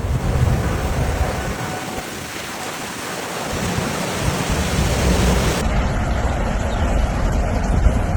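Heavy rain in a thunderstorm, a steady hiss with a strong low rumble of wind on the microphone; the sound changes abruptly about five and a half seconds in as one storm recording cuts to another.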